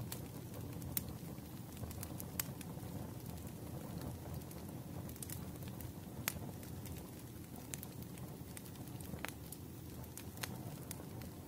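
Wood fire crackling in a fireplace: irregular sharp pops and snaps, a few of them louder, over a low steady rush of the flames.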